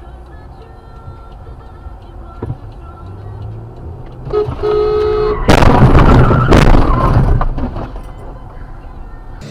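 Car driving with steady road noise, then a car horn blares for about a second, followed at once by a loud crash lasting about two seconds that dies away.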